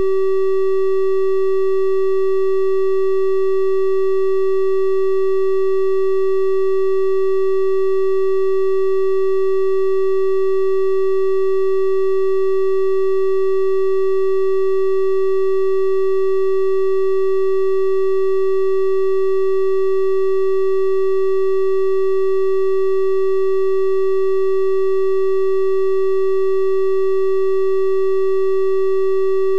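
A steady synthesized 384 Hz triangle-wave tone, held at one unchanging pitch with faint higher overtones.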